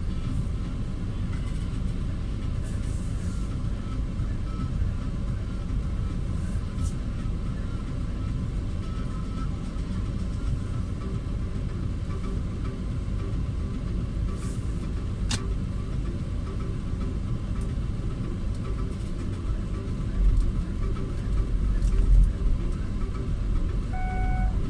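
Steady low rumble of a car running, with a few louder thumps about twenty seconds in. A beep repeating about once a second starts near the end.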